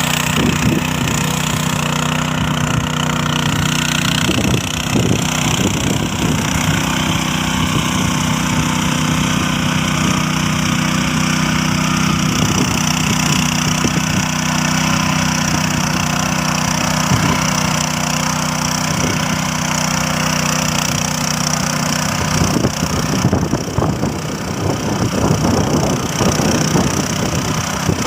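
Tractor engine running at a steady pitch. A little over three-quarters of the way in, the steady tone fades and the sound turns rougher and more uneven.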